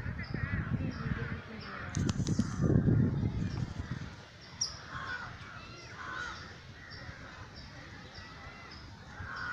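Birds calling, with harsh calls and a short high chirp repeating about twice a second. A low rumbling noise covers the first four seconds.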